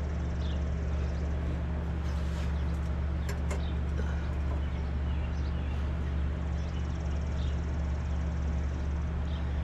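A steady low machine hum, even throughout, with a few faint clicks and light chirps over it about two to four seconds in.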